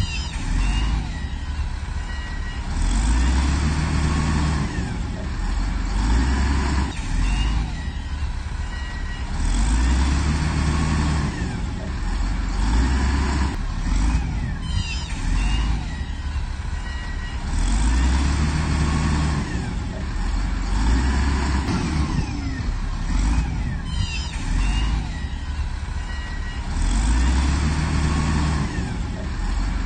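Heavy diesel earthmoving machine at work, its engine revving up under load and easing off in repeated cycles about every six to seven seconds, with short high metallic squeals in between.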